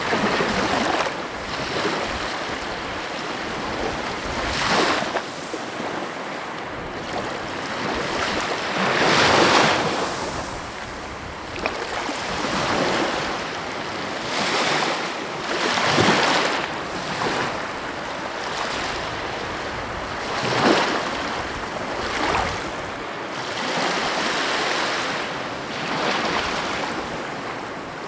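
Sea waves breaking and washing ashore, a steady surf hiss with a fresh surge every few seconds.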